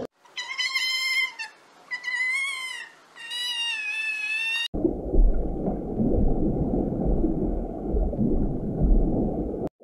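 An animal giving three high, wavering, mewing calls, each about a second long. About halfway through, these give way to a low, continuous rumbling noise that stops sharply near the end.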